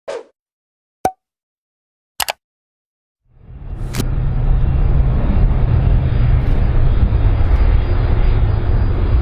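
Three short sharp clicks, then about three seconds in a loud, steady aircraft rumble swells up and holds.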